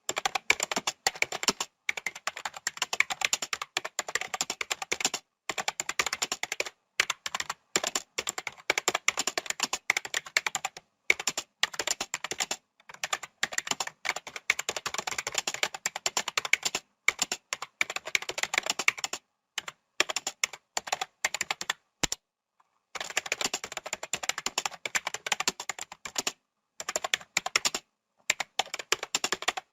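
Fast typing on a computer keyboard: a dense, continuous run of key clicks, broken by short pauses now and then.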